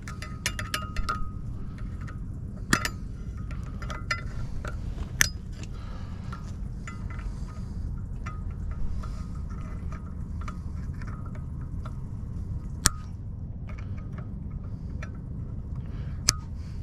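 Light metallic clicks and clinks from pliers and hand tools working the cotter pin out of an outboard's propeller nut, scattered irregularly over a steady low rumble.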